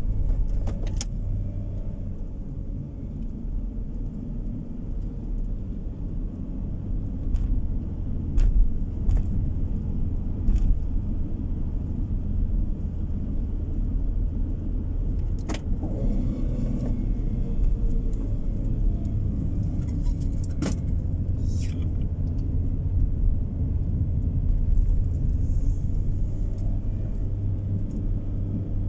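Road and engine noise heard from inside a moving car: a steady low rumble, with a few light clicks and rattles from the cabin now and then.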